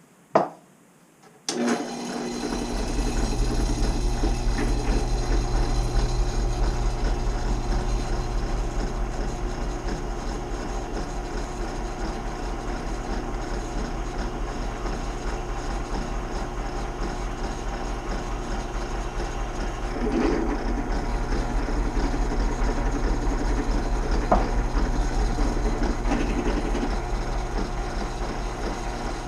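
Drill press switched on with a sharp click, its motor starting about a second and a half in and then running with a steady hum while drilling a pilot hole in steel plate.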